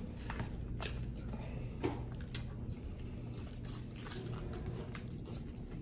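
Close-up eating sounds: chewing and biting into crisp fried fish, with scattered small crunches and mouth clicks over a steady low hum.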